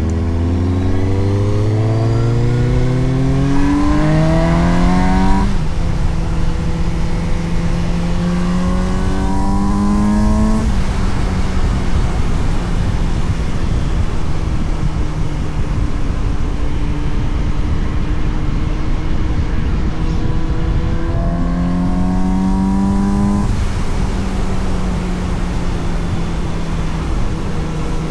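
Suzuki GSX-S750's inline-four engine pulling hard under acceleration: its pitch climbs and then drops at each upshift, about 5 s and 11 s in. It holds a steady, slightly falling note through the middle, then climbs again until another drop near the end. Wind rush runs beneath it.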